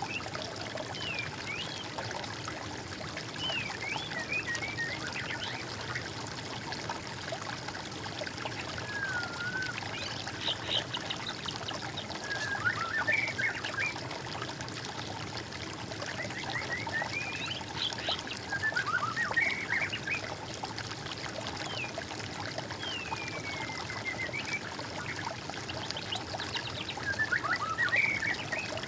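Songbirds singing over steady trickling, flowing water: short phrases of whistled glides and quick trills, coming every few seconds.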